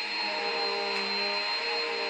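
Vacuum cleaner running steadily, with an even rushing noise and a constant high-pitched whine over it.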